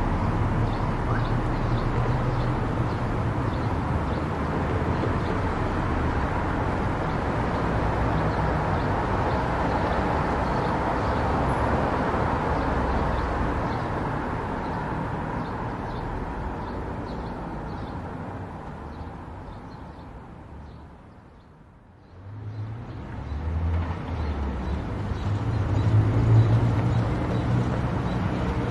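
Car driving on a highway: a steady rush of tyre and road noise with a low engine hum. The sound fades down almost to quiet about three-quarters of the way through, then comes straight back up.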